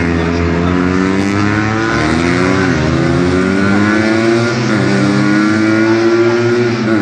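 Car engine under hard acceleration: its pitch climbs steadily, then drops sharply and climbs again, about three times.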